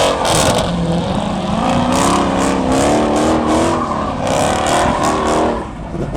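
Car engine revving hard at high rpm, its pitch rising and falling, over a hiss of spinning tyres: a burnout.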